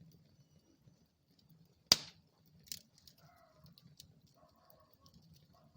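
Wood fire burning in a fireplace: scattered small crackles over a faint low rumble of flames, with one sharp, loud pop about two seconds in and a smaller pop just after.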